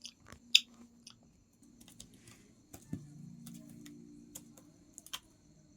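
Pet parrot's beak making scattered sharp clicks and small crunches, the loudest about half a second in and again near the end.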